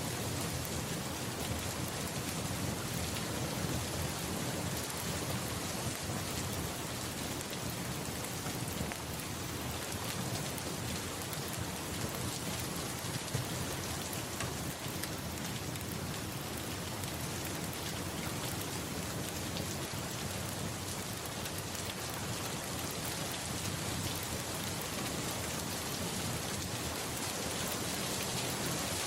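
Steady rain falling, an even, unbroken hiss that holds at one level throughout.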